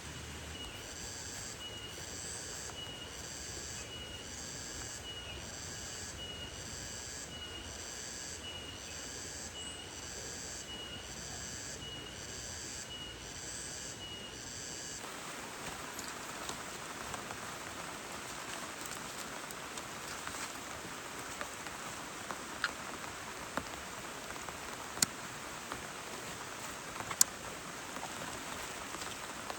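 Steady rain hiss with a high chirp repeating about once a second for the first half. About halfway through, the sound cuts to rain with a brighter hiss, and heavy drops strike a surface with sharp, loud knocks, more often toward the end.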